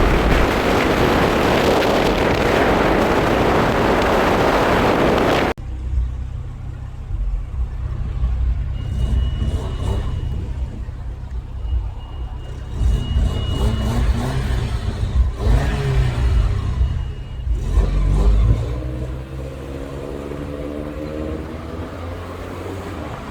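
A car on the move, heard from inside. For about the first five seconds there is a loud, even rush of wind and road noise, then it cuts suddenly to a quieter, steady engine and tyre drone. Near the end there is a slow rise in engine pitch.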